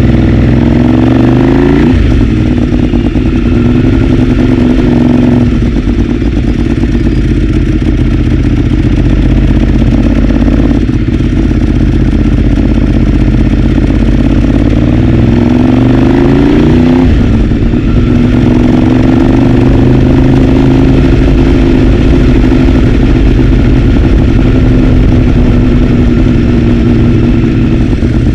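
Ducati 848 L-twin racing engine running hard on track, heard from onboard. The pitch mostly holds steady, climbing twice as the revs build and dropping suddenly about two seconds in and again about seventeen seconds in.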